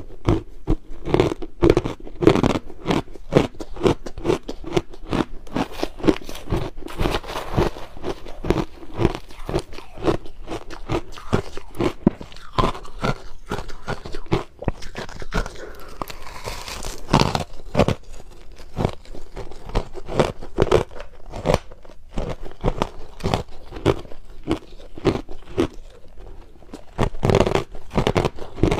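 Crushed ice being bitten and chewed close to the microphone: a dense run of irregular crunches and crackles.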